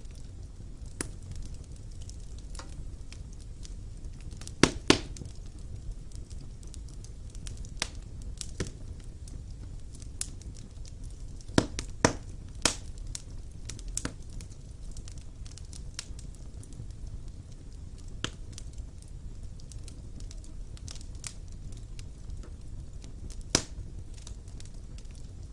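Fire burning in a stone fireplace: a steady low rumble with scattered sharp crackles and pops, the loudest ones about five seconds in, a cluster around twelve seconds, and one near the end.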